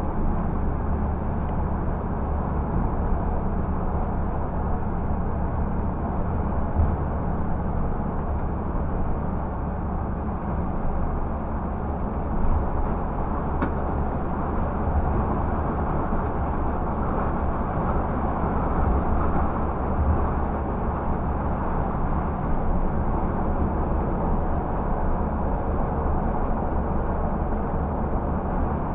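Scania bus's 360 engine running steadily under load as the empty bus climbs a long hill, a constant low drone with road noise and no gear change.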